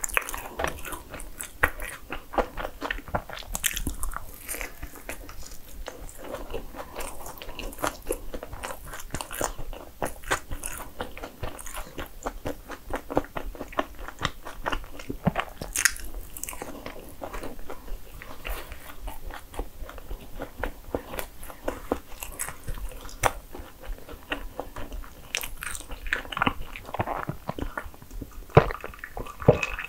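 Close-up eating sounds: bites and chewing of a cream-filled sandwich bagel, with many small wet mouth clicks. Near the end, a sip of coffee from a mug.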